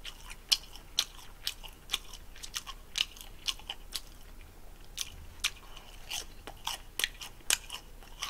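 Close-up mouth sounds of someone biting and chewing deep-fried gimmari, seaweed rolls filled with spicy buldak glass noodles in a crisp batter. Sharp crunches come about twice a second, with a short lull about halfway through.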